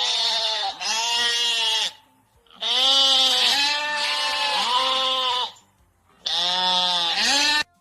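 An animal calling: about five drawn-out cries in a row, each wavering and arching in pitch, with short gaps between them.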